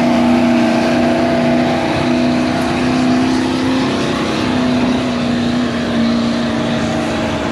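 Pulling tractor's engine running loud and hard under load, a steady heavy drone with little change in pitch.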